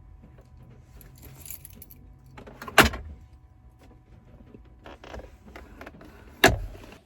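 Car keys jangling amid handling noise, with two loud, sharp thumps, the first about three seconds in and the second near the end.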